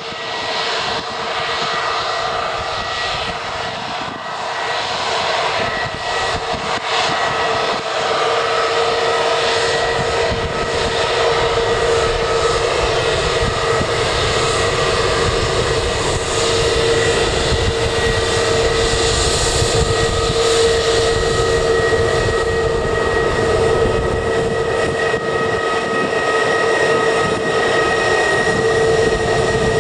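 Fixed-wing aircraft engines running with a steady, multi-toned whine over a rushing noise, growing gradually louder.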